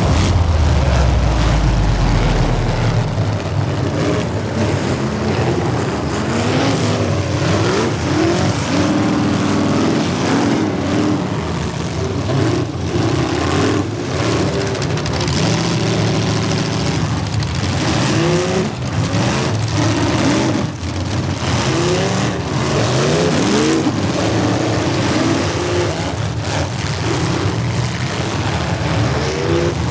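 Several demolition derby cars' engines revving hard and overlapping, their pitch rising and falling over and over, with scattered crunching impacts as the cars hit each other.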